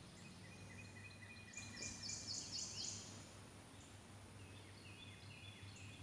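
Small birds singing in the surrounding trees: a quick run of high chirps about one and a half seconds in, with quieter repeated notes before it and again near the end.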